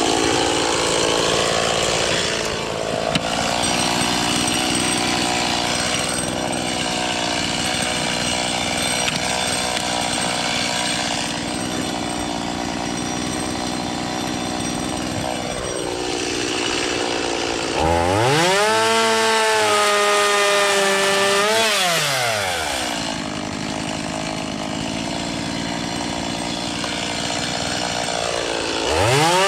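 Gas chainsaw cutting dead green ash limbs into 12-inch firewood rounds: the engine labours in the cut for most of the time, revs up high about two-thirds in, drops back to a low run a few seconds later, and revs up again near the end.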